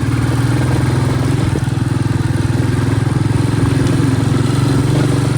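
Royal Enfield Bullet motorcycle's single-cylinder engine running at a steady pace while being ridden, its exhaust a rapid, even beat with no change in pitch.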